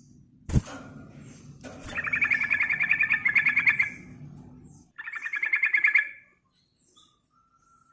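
A sooty-headed bulbul (trucukan) giving two bursts of rapid chattering trill, the first about two seconds long and the second about one second, the chatter used as a lure call. A sharp knock sounds about half a second in, before the first burst.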